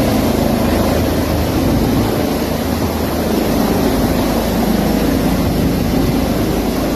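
A steady engine drone with a low hum under it, holding level without a break.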